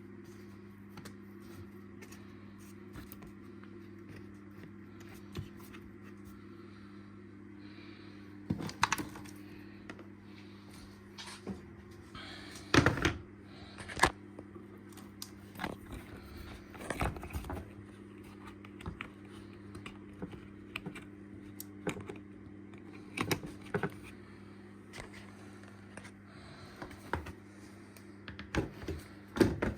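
Scattered clicks and knocks of dishwasher parts being handled and fitted back together, over a steady low hum.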